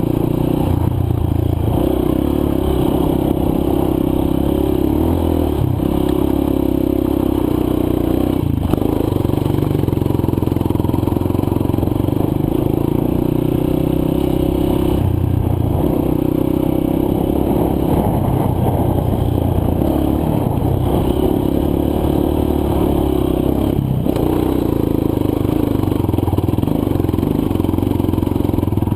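Dirt bike's single-cylinder four-stroke engine running under load while riding a trail, the revs changing several times as the throttle and gears change.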